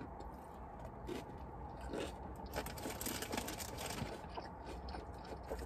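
Quiet chewing and wet mouth clicks of a person eating food close to the microphone.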